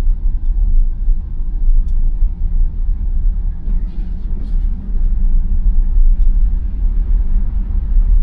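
Steady low rumble of tyre and road noise inside the cabin of a 2021 Tesla Model Y, an electric car with no engine sound, driving on snow-covered roads.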